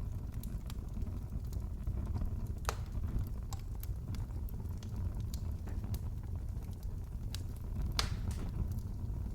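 Wood fire crackling in a fireplace: a steady low rumble under scattered sharp pops, the loudest about three seconds in and again near eight seconds.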